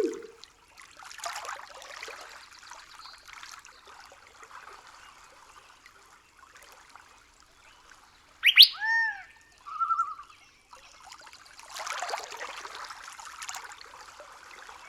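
Night forest ambience: a soft rushing, trickling noise that swells twice. Over it, a bird gives a sharp call a little past halfway, an upward sweep followed by two arched notes, then a brief buzzy note a second later.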